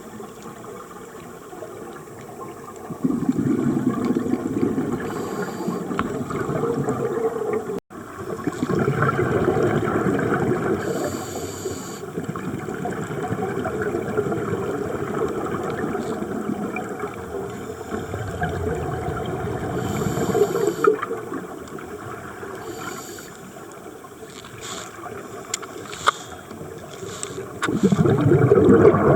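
Underwater scuba sound: a diver's exhaust bubbles gurgling in long spells, separated by quieter stretches between breaths, with a brief drop-out about eight seconds in.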